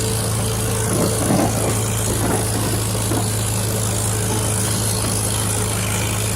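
1951 Farmall H tractor's four-cylinder gasoline engine running steadily while the tractor drives along a road, holding a constant pitch.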